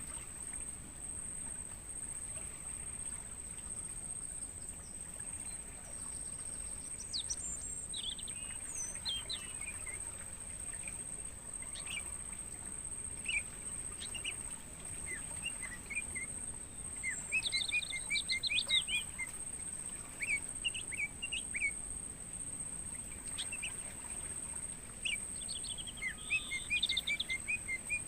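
Crickets giving one steady, unbroken high-pitched trill, with songbirds chirping over it in short calls that come thickest about halfway through and again near the end.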